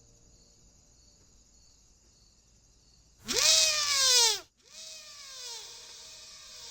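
About three seconds in, a loud wavering cry sounds, its pitch leaping up and then sliding down over about a second. It is followed by a quieter echo of the same falling cry that dies away.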